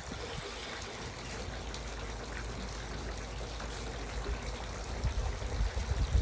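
Garden water fountain splashing and trickling steadily, with a few low thumps near the end.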